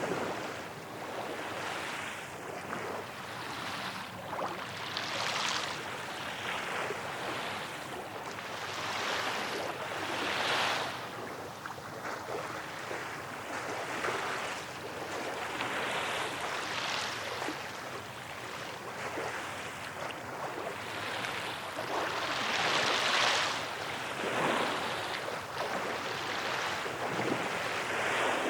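Small waves washing onto the Tokyo Bay shore, a steady hiss that swells irregularly every couple of seconds as each wave breaks.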